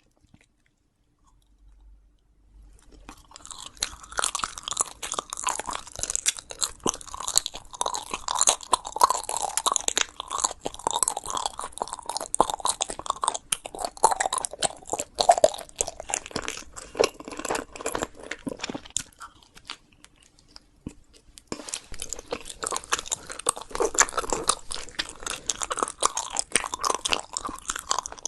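Close-miked chewing of crunchy food, a dense run of crunches and mouth sounds. It starts a few seconds in, pauses briefly past the middle, then resumes.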